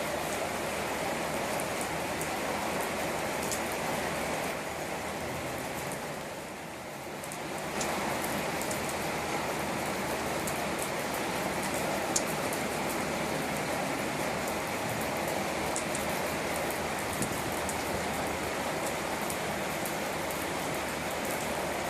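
Steady rain falling, with scattered sharp ticks of drops striking a surface. It eases briefly about five to eight seconds in.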